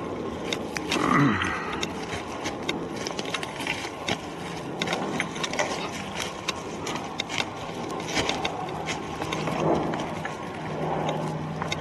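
Footsteps crunching and crackling through forest-floor litter and brush while walking off-trail, an irregular run of small snaps and rustles.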